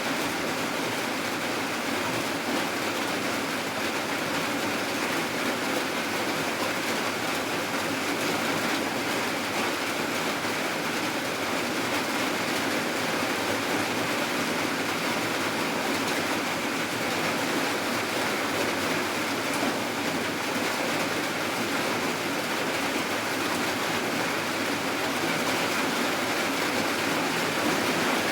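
Steady heavy rain falling, an even hiss with no breaks or changes.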